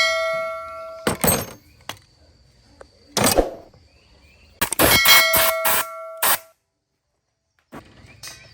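Steel parts struck together in a metal workshop: two hard metal strikes, each ringing on with a bright, bell-like tone for about a second, with shorter knocks and scrapes of metal between them.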